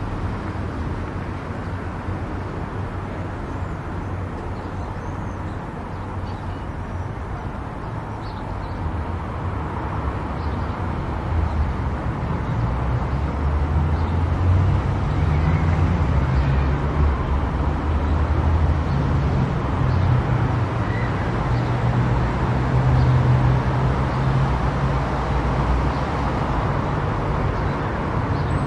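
A car driving along a road: a steady low rumble of engine and tyres with a fainter hiss above it, growing louder about ten seconds in.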